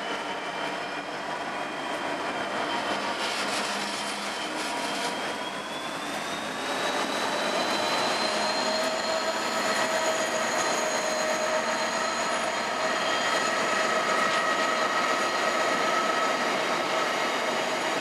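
Class 66 diesel locomotive with its EMD two-stroke V12 running as it comes up and passes close, its engine note rising about six seconds in. The train's hopper wagons then roll past, wheels clattering on the rails.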